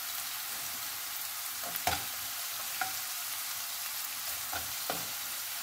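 Crushed shallots, garlic and cumin seeds sizzling steadily in hot coconut oil in a nonstick pan, with a few sharp clicks of a steel spoon against the pan.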